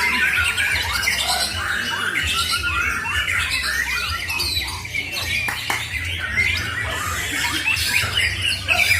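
Several caged songbirds singing and chattering over one another, a white-rumped shama (murai batu) among them, in quick overlapping chirps and warbles. A steady low hum runs underneath.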